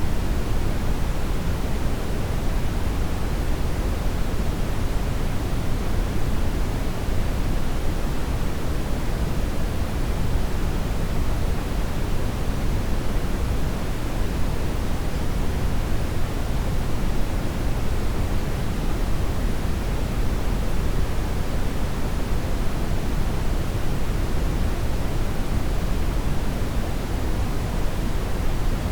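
Steady brown noise: an even, unchanging rushing hiss, deepest in the bass and fading toward the treble.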